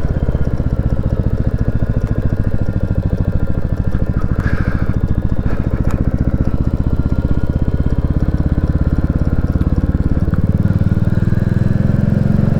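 Royal Enfield Classic 350's single-cylinder engine running under way, its exhaust a steady even beat, growing louder about ten seconds in as the throttle opens.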